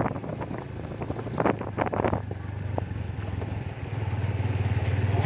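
Motorcycle engine running steadily on the move, with wind buffeting the microphone in the first two seconds; the engine drone grows louder near the end.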